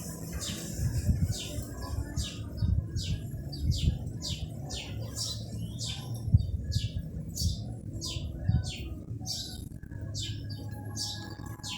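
A bird calling over and over, short high calls about two a second, over irregular low rumbling.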